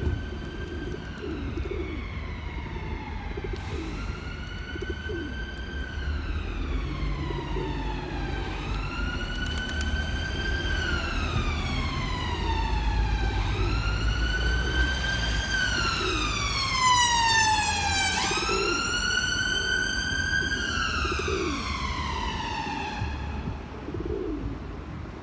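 An emergency-vehicle siren wailing, its pitch sweeping slowly up and down every few seconds, with a quicker sweep about two-thirds of the way through. Pigeons cooing softly and a low rumble sit underneath.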